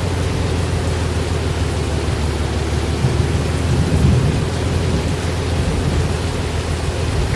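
Thunderstorm: steady rain with a low rumble of thunder that swells about three to four seconds in.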